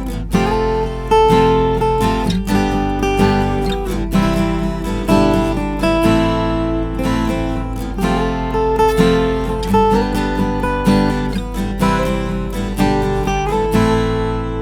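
Cat's Eyes CE-25 acoustic guitar, spruce top with mahogany back and sides, being strummed and picked in a chord progression, with the chords changing about every second.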